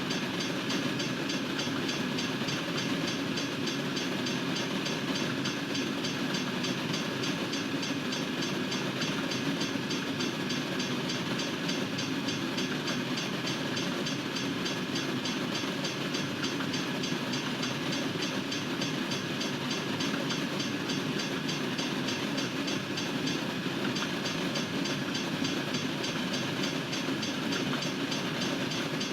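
Freight train cars rolling steadily past, wheels rumbling and clacking on the rails.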